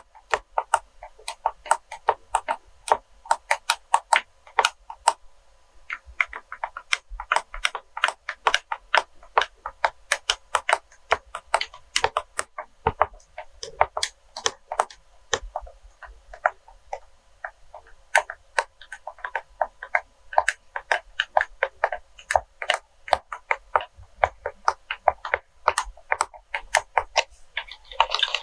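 ASMR tapping on wax melts: quick, irregular light clicks, several a second, with short pauses in between.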